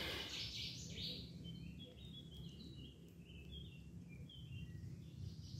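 Birds chirping: a burst of high chirps, then a run of short high notes that step up and down in pitch, over a low rumble.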